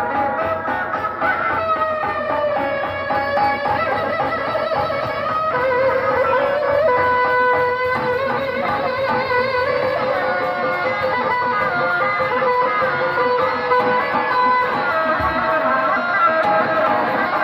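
Live benjang music from a Sundanese traditional ensemble, playing a continuous, ornamented melody line with sliding and held notes at a steady level.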